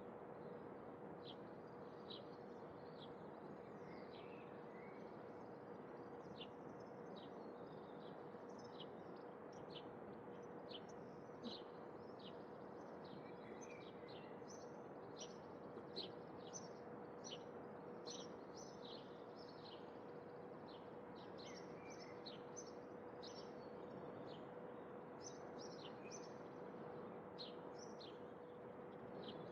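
Songbirds chirping faintly, many short, quick high chirps repeated throughout, with a few lower calls mixed in. Under them runs a steady hiss with a faint constant hum.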